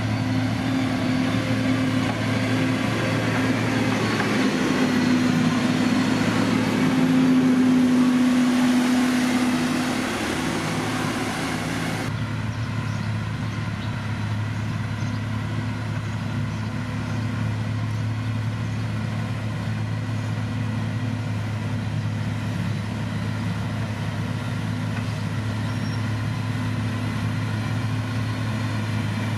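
Diesel engine of a heavy road-construction machine running steadily, swelling louder about eight seconds in. About twelve seconds in the hiss above it drops away suddenly, leaving the engine's steady drone.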